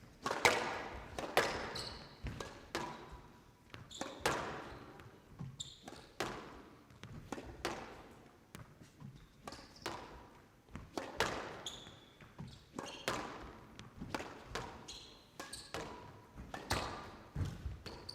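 Squash rally: the ball cracking off rackets and the court walls in an irregular series of sharp hits, with short high squeaks between them.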